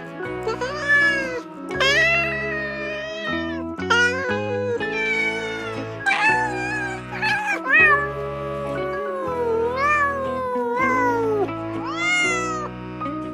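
Cat meowing again and again, a string of drawn-out meows that rise and fall in pitch, over background music of sustained chords.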